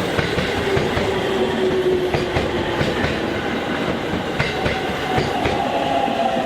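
JR Central 313 series electric train rolling along the platform as it arrives, wheels clicking over rail joints amid a steady running rumble, with a faint steady whine.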